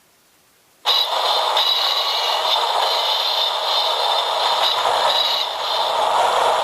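Recorded railway wheel flange squeal played through a TOMYTEC Geocolle sound unit: a steady scraping screech of train wheels on rail. It starts about a second in and stops abruptly.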